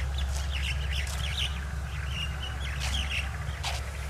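Small birds chirping, scattered short calls throughout, over a steady low rumble.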